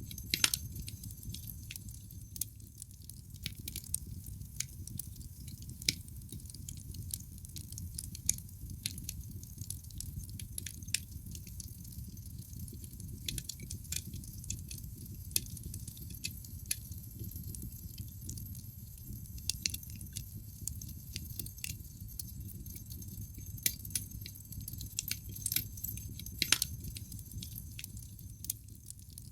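Wood logs burning in a fireplace: dense, irregular crackling with sharp pops over a steady low rush of flame.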